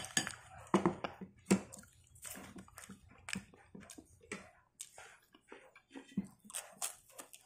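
Close-up chewing and mouth sounds of a person eating, with irregular short clicks and smacks.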